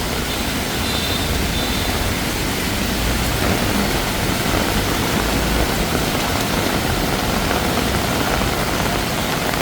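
Heavy tropical rain falling steadily, a continuous even hiss with a low rumble underneath.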